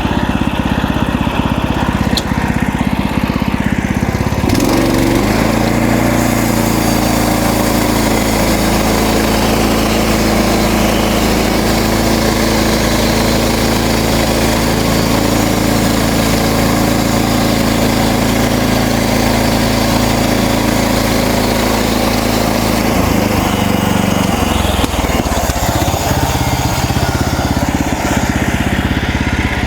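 MechMaxx band sawmill's engine running steadily. At about four seconds it settles into a steady, even note with more hiss over it, which holds for about twenty seconds before changing again near the end.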